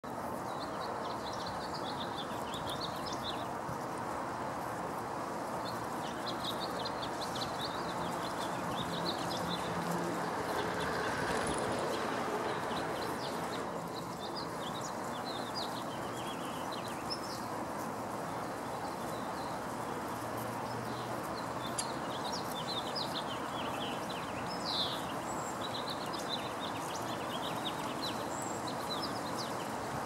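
Small birds chirping and calling in short, scattered high notes over a steady background noise.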